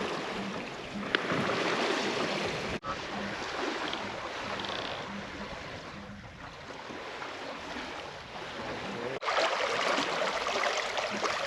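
Water rushing and splashing along the hull of a sailboat under way, a steady hiss, in three clips joined by abrupt cuts about three seconds in and again about nine seconds in.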